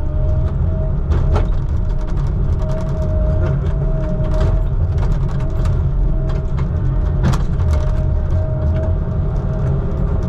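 Heavy truck engine running steadily: a low rumble under a steady hum, with scattered light clicks.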